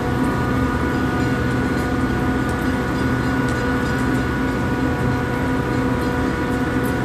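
Steady mechanical hum of a Metra commuter train standing at the platform, its F40PH diesel locomotive and car equipment running, with several steady tones.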